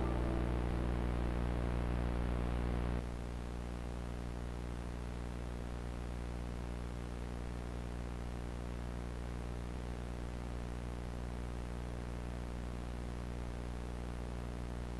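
Steady electrical hum with a buzzy ladder of overtones and a faint hiss, dropping a little in level about three seconds in and then holding steady.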